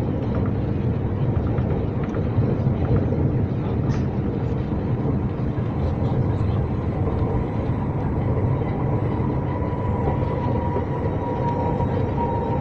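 Line P suburban train running at steady speed: a continuous deep rumble with a faint whine that grows a little stronger near the end.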